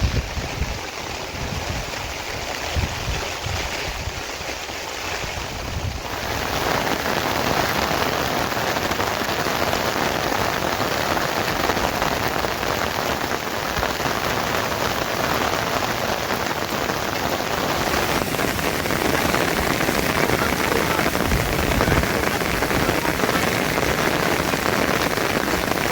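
Steady rain falling, an even hiss that gets heavier and louder about six seconds in.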